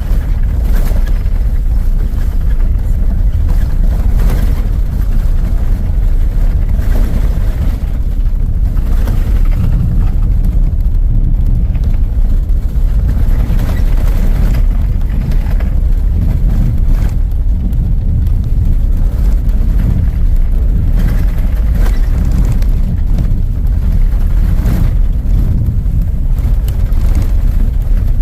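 Loud, steady low rumble of wind buffeting the microphone, with irregular gusts.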